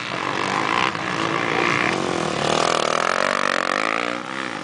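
Motocross bike engines revving on the track, pitch swinging up and down as the riders open and close the throttle, with a dip and a climb again near the end.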